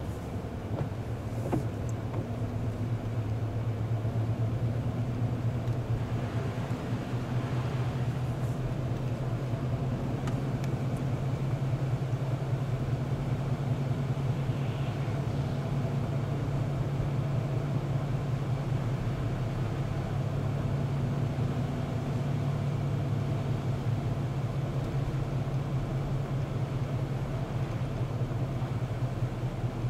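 Steady engine and road noise heard inside a moving car, an even low hum with no breaks.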